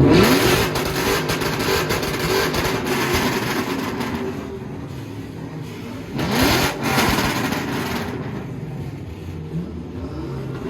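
Car engine revving: pitch climbs sharply right at the start, settles back, then climbs again in a second rev about six seconds in, over the engine running.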